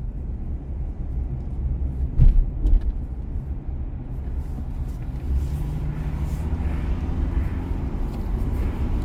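Car driving on city streets: a steady low rumble of road and engine, with two short knocks a little over two seconds in and a slightly stronger hum from about halfway through.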